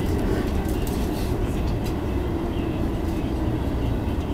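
Running noise of a JR East E233-1000 series Keihin-Tohoku Line commuter train, heard from inside the front car as it slows into a station platform. There is a steady rumble of wheels and running gear with a faint steady hum.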